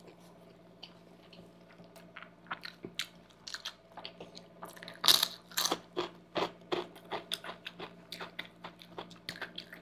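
Eating sounds: wet chewing and mouth clicks from a mouthful of creamy white sauce pasta, with a run of louder crunches about five seconds in as a chip is bitten and chewed.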